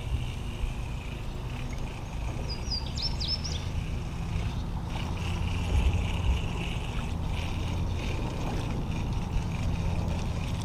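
Low, steady rumble of water and wind around a small boat floating down a creek, with a faint steady high hiss and a brief run of short high chirps about three seconds in.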